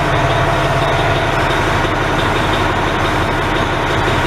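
Loud, steady mechanical drone of running machinery, unbroken throughout, with a low hum underneath.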